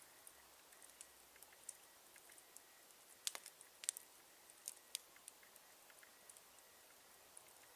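Wood campfire crackling faintly, with sparse, irregular snaps and pops; a few louder pops come about three to five seconds in.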